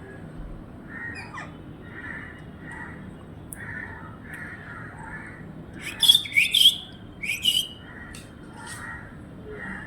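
A parrot's loud harsh squawks, four or five in quick succession about six seconds in. Other birds call steadily in the background, about twice a second.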